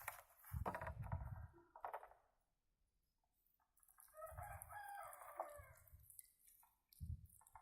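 A rooster crows once, a single pitched call of about two seconds in the middle. Dull thumps and clicks come before it and again near the end, and they are louder than the crow.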